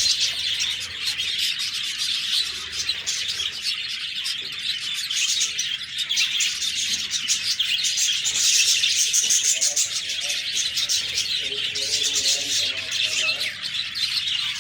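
A flock of budgerigars chirping and chattering, a dense, unbroken stream of high chirps.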